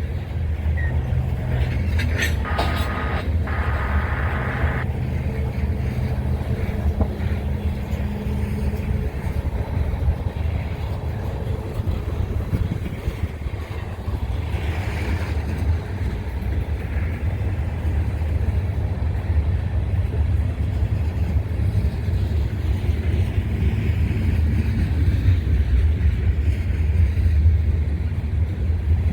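Loaded grain hopper cars of a diesel-hauled freight train rolling past, a steady low rumble. The drone of the lead locomotives fades away over the first several seconds.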